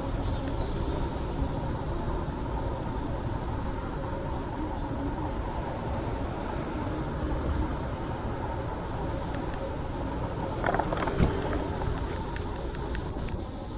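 Steady urban road-traffic rumble heard from a moving bicycle, with a brief louder knock about eleven seconds in.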